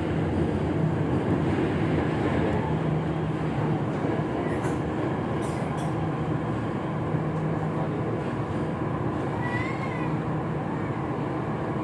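Electric MRT Jakarta metro train running, heard from inside the carriage: a steady rumble with a constant low hum. About ten seconds in there is a brief faint high squeak.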